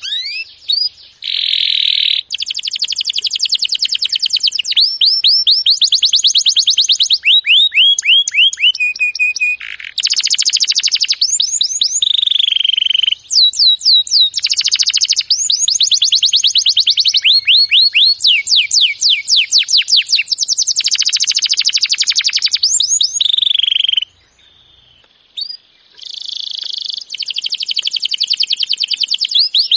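Domestic canary singing a long song of rapid trills and rolls, each phrase a fast run of repeated notes lasting one to three seconds. The song breaks off briefly about 24 seconds in, then resumes.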